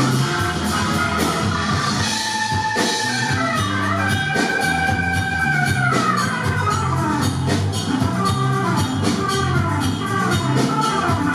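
Anatolian rock band playing an instrumental passage live: the drum kit keeps a steady beat under held high lead notes that slide down about six seconds in.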